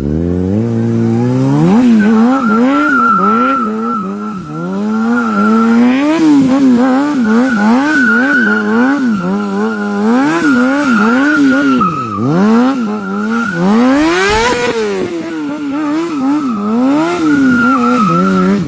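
Motorcycle engine revved up and down over and over, its pitch rising and falling about once a second, with one higher, longer rev near the middle. A steady high tyre squeal runs above it from about two seconds in.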